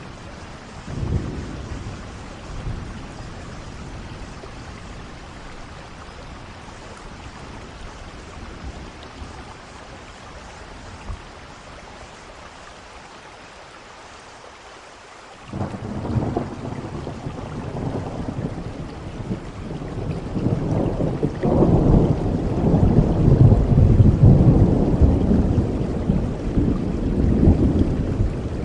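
Steady rain with thunder. There is a short low rumble about a second in, then about halfway through a thunderclap breaks in suddenly and rolls on as a long low rumble that grows louder.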